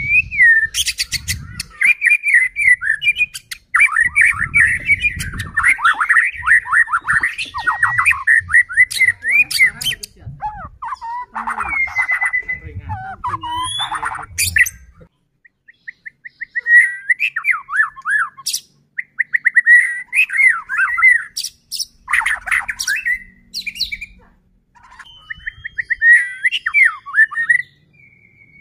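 White-rumped shama (murai batu) singing loudly and continuously: varied whistled phrases mixed with fast rattling and chattering notes, breaking off briefly twice.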